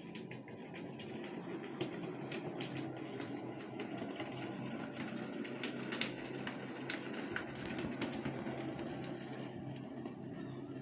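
00 gauge model locomotive running on the layout: its small electric motor hums steadily while the wheels click irregularly over rail joints and points as it shunts wagons.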